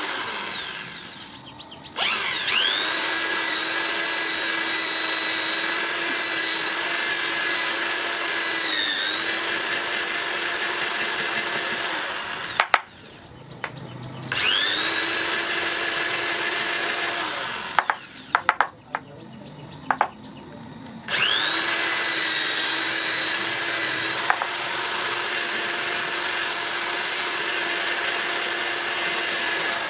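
Hand-held electric power tool starting with a quickly rising whine and running steadily over a dense hiss, three times. The first run lasts about ten seconds, the second a few seconds, and the third starts about two-thirds of the way in.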